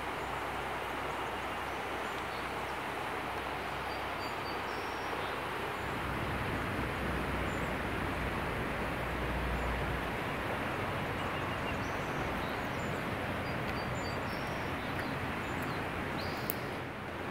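Outdoor nature ambience: a steady rushing background noise with a low rumble that swells about six seconds in and fades by ten, and a few faint, short bird chirps scattered throughout.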